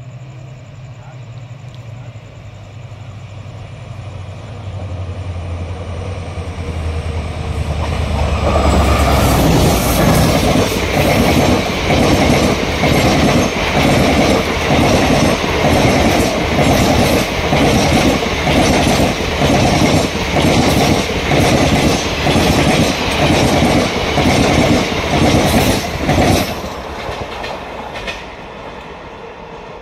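Passenger express train passing at speed. The locomotive's low drone builds over about eight seconds, then a fast, even clickety-clack of the coaches' wheels over the rail joints, about one and a half beats a second, which cuts off suddenly near the end as the last coach goes by.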